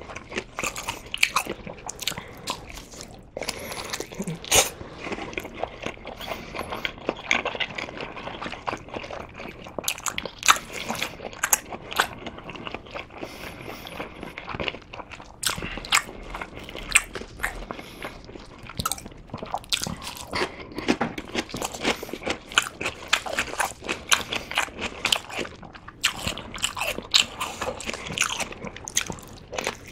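Close-miked biting and chewing of sundae, Korean blood sausage, with many quick, irregular wet mouth clicks.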